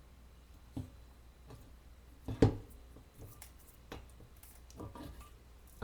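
Craft materials and tools being handled and set down on a work table: a few scattered taps and rustles, with one sharp knock about two and a half seconds in.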